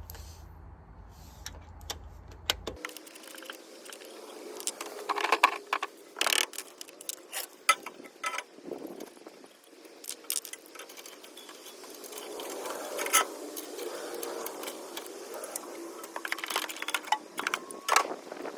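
A hand wrench clinking and rattling on a metal bolt as it is turned, with scattered sharp metal clicks and taps.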